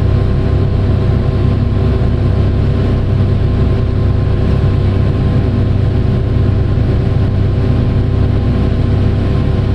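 Large diesel engine of heavy mining equipment running at a steady speed, a constant low rumble with a steady hum and no change in pitch.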